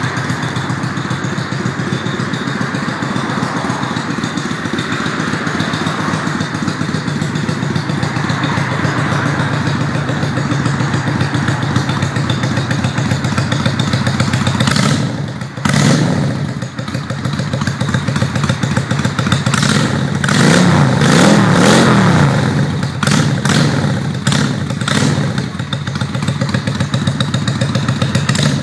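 Honda Shadow V-twin with an aftermarket muffler idling with a steady pulsing beat, then revved in short blips from about halfway, the pitch swinging up and down.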